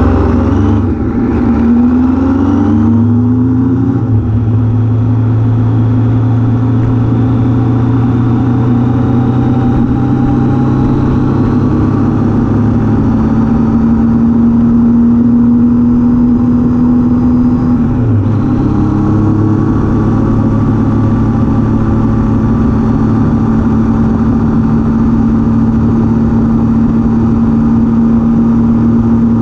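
Triumph Daytona T595's three-cylinder engine on the road, revving up through two quick gear changes, then running at a steady cruise. About eighteen seconds in, the engine note dips briefly and then settles back to a steady pitch.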